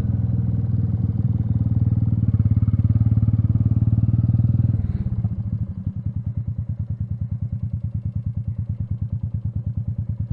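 Royal Enfield Meteor 350's single-cylinder engine running, then about halfway through dropping to a slow, even idle with each firing beat heard separately.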